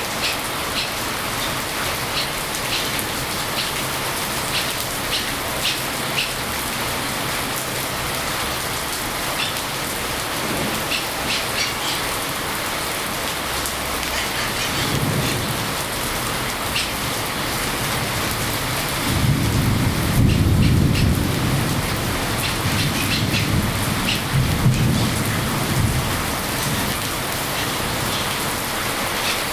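Steady rain with scattered drips, and a low rumble of thunder about fifteen seconds in, followed by a longer, louder roll of thunder from about nineteen to twenty-six seconds.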